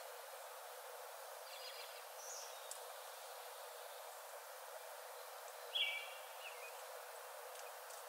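A few short bird calls, the loudest about six seconds in, over a steady hiss of forest background noise.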